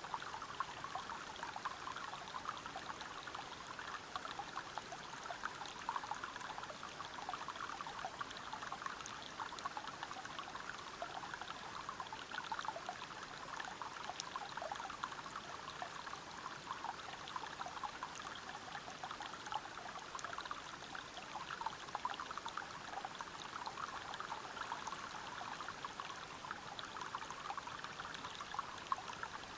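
River water flowing and splashing over rocks in a steady, unbroken babble of small trickles and splashes.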